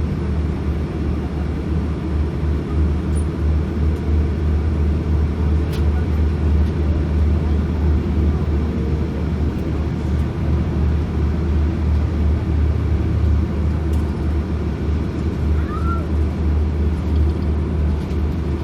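Steady low rumble of an Airbus A340-600's cabin noise on the ground, with a few faint clicks and a brief high chirp near the end.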